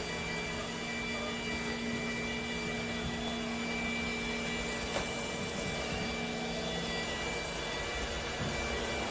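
Steady machine hum and whine made of several held tones over an even rushing noise, with a faint click about five seconds in.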